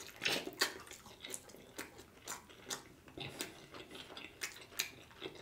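A man biting into a piece of oxtail and chewing it with his mouth open: wet, smacking mouth sounds coming about twice a second.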